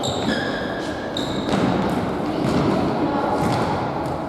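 Indoor futsal play: the ball thudding off feet and the hard court, with short high squeaks of shoes on the floor and voices echoing in the hall.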